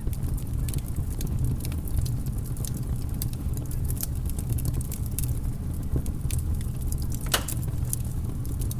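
Fire crackling: irregular small snaps and ticks over a steady low rumble, with one louder pop about seven seconds in.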